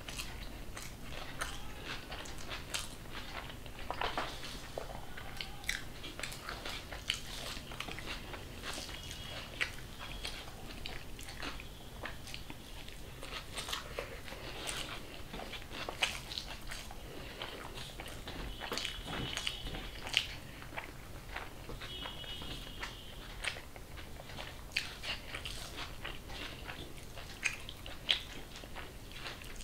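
A person eating close to the microphone: chewing and crunching food, with many short sharp crunches and mouth clicks scattered through.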